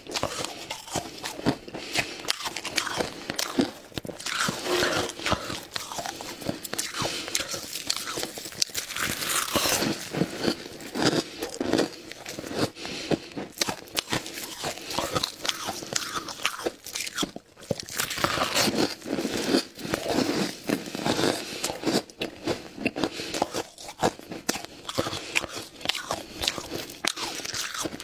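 Close-miked biting and chewing of crunchy ice: a steady run of sharp, crackling crunches.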